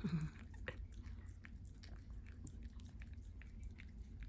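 A Pomeranian chewing and licking a frozen yogurt dog treat: scattered soft, wet clicks. There is a brief vocal sound that falls in pitch right at the start.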